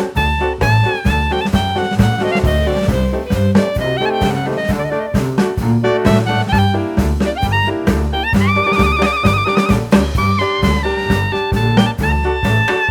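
Live band playing an instrumental passage over a steady bass and drum beat, with a high, shrill lead melody that holds one long note with vibrato about eight seconds in.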